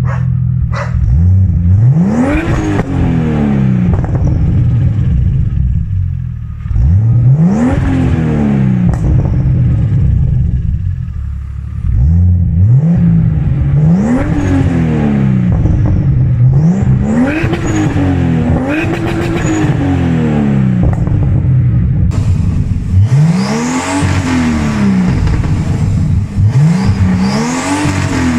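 Turbocharged BMW 328i with a fully open exhaust and a Magnaflow muffler, its engine revved again and again. Each rev is a quick rise and fall in pitch, about eight in all, some coming in close pairs.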